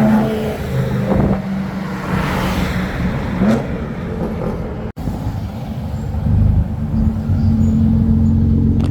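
Car engine running at low revs with a steady low hum, which grows louder in the second half.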